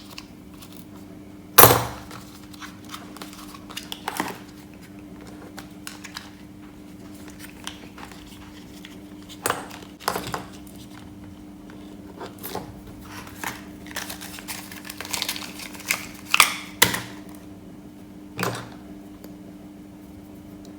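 Scattered clicks, knocks and light clatter of small hard objects being handled, the loudest knock about a second and a half in, over a faint steady hum.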